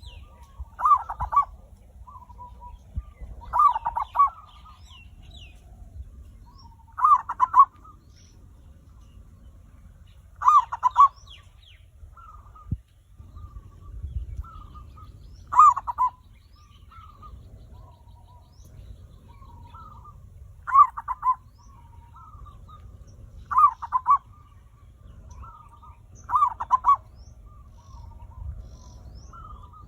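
Male zebra dove (perkutut) cooing: eight loud trilled coo phrases every three to five seconds, with soft short notes between them. This is the kind of song played as a lure call to get other doves to sing.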